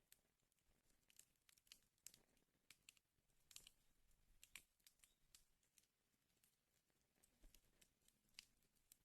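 Wood fire crackling: faint, irregular snaps and pops of burning wood over a soft hiss, with a few sharper pops scattered through.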